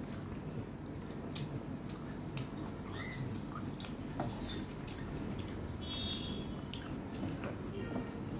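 Close-up eating sounds: wet chewing and smacking clicks from a mouthful of mutton curry and rice, with the squish of fingers mixing rice and curry on a steel plate.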